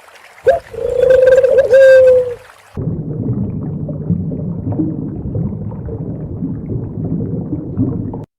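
An animal's drawn-out call, held on one pitch with a brief waver, about a second in. Then a dense, rough, low-pitched noise runs for about five seconds and stops abruptly.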